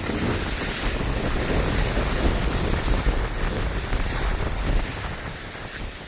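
Wind buffeting the microphone of a skier moving downhill, with the rushing hiss of skis sliding over snow. The low rumble eases about five seconds in as the sound gets quieter.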